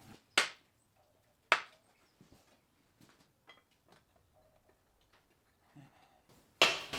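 Steel parts being handled: three sharp clanks, with faint ticks and taps between them. The last clank, near the end, is the loudest.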